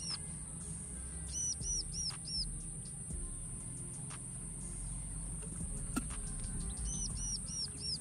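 A small songbird calling a quick phrase of four high, down-slurred notes, twice: about a second and a half in and again near the end. Under it runs a steady high hiss.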